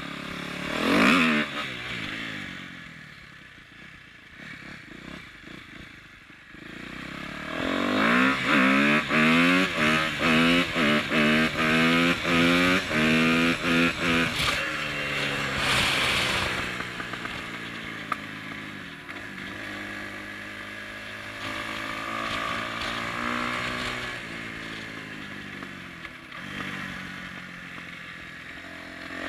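2010 Kawasaki KX250F's single-cylinder four-stroke engine being ridden. It revs briefly about a second in and runs quieter for a few seconds. From about seven seconds in it is revved hard in a quick run of rising and dipping pitch for several seconds, revs once more around the middle, then settles to lower, steadier running.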